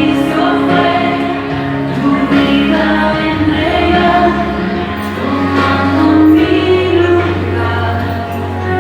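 Christian worship song: several voices singing together over instrumental backing with a steady bass line.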